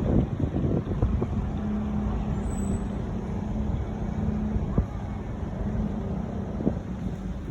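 Street traffic: a motor vehicle's engine running with a steady low hum, over a low rumble of wind on the microphone, with a few light knocks.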